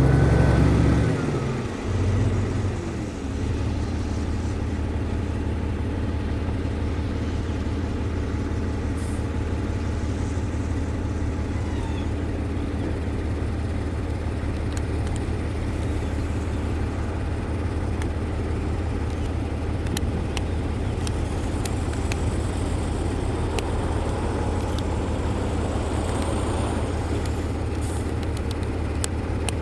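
Diesel engine of a heavy road-building machine running, louder for the first few seconds and then settling to a steady, even running note.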